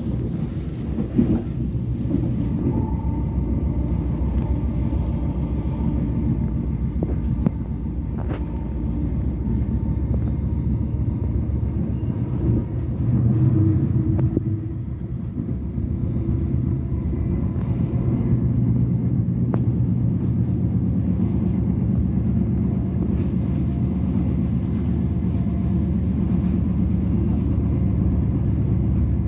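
Interior running noise of a Class 707 electric multiple unit under way: a steady low rumble of wheels on track. A faint whine sounds through the first third, with a few scattered clicks.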